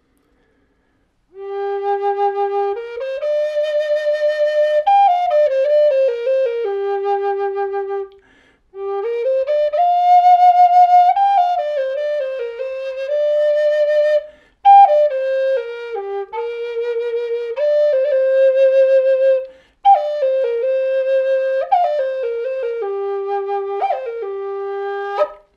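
A Native American flute in G minor, made of aromatic cedar, playing a slow melody in four phrases with short breaths between them. It settles repeatedly on its low home note.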